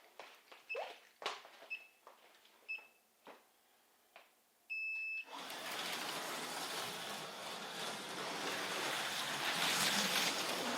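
A lap timer's start countdown: three short high beeps about a second apart, then a longer beep. Right after it HO-scale slot cars take off and run around the plastic track, a steady whirring rush of small motors and wheels.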